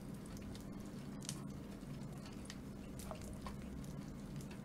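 Faint chewing of boneless fried chicken coated in popping candy, with scattered small crackles and clicks, over a steady low hum.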